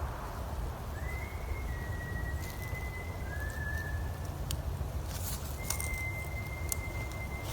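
Thin, high, steady whistling of unidentified origin: a few held notes that step slightly up and down in pitch from about a second in, then one longer unbroken whistle starting near the six-second mark, over a constant low rumble with a few faint clicks.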